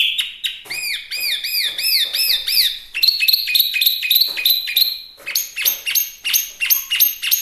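A hwamei singing loudly: phrases of repeated arched, up-and-down whistled notes. About three seconds in these give way to quicker clipped notes, and after about five seconds to a run of longer falling notes.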